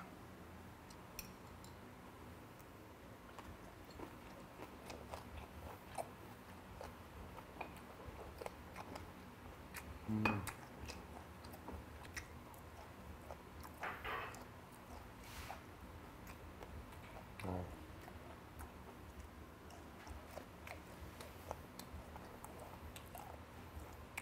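A man chewing a mouthful of samhap (fermented skate with pork and kimchi) close to the microphone: soft wet chewing with many small clicks and smacks. Three louder short mouth sounds come about ten, fourteen and seventeen seconds in.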